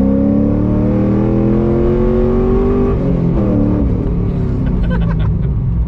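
A cammed car's engine heard from inside the cabin, accelerating hard with its pitch rising steadily. About three seconds in the pitch drops at a gear change, and the engine carries on pulling at a lower pitch.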